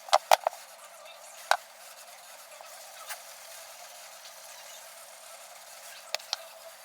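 A few sharp clicks and knocks from workshop handling: three in quick succession at the start, one about a second and a half in, and two close together near the end.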